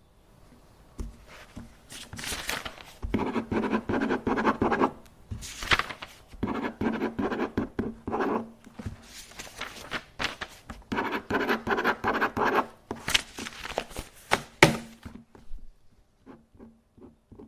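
Paper being handled in a small room: sheets rustling, rubbing and scraping in bursts, with a few light thunks, then several soft clicks near the end.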